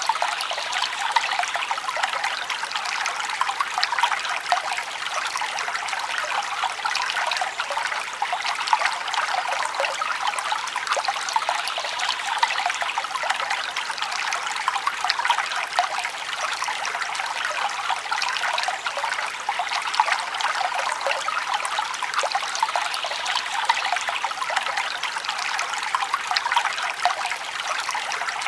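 Forest stream trickling and babbling steadily, an even rush of water sprinkled with many small splashes and no deep rumble.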